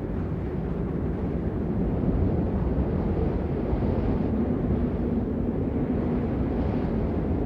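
Steady rain as white noise, a dull, even wash that is heavy in the low end with little hiss on top.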